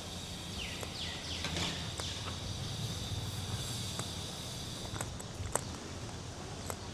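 Footsteps over a steady, high insect drone, with a few short falling chirps early on and a low background hum.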